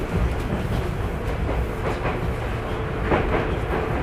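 Tokyu 9000 series electric train running, heard from inside a passenger car: a steady rumble of wheels on rail, with a few clacks over rail joints.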